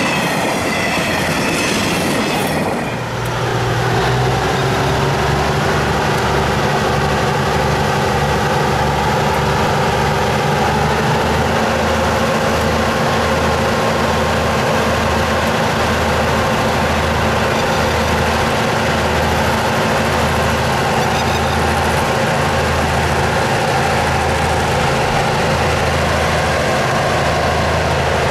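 Freight wagons rolling past close by, wheels clattering with a high squeal. About three seconds in, after a cut, a diesel shunting locomotive hauls container wagons slowly, its engine a steady low drone with a slow, regular pulsing.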